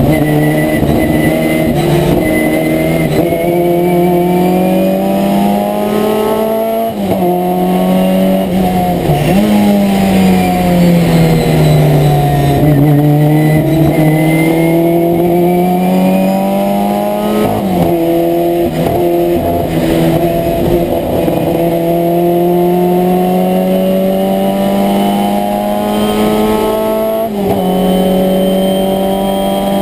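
Abarth 1000 TC's small rear-mounted four-cylinder engine running hard, heard from inside the cockpit. The revs climb and fall several times, with sudden drops about a quarter of the way in and just after halfway, typical of gear changes.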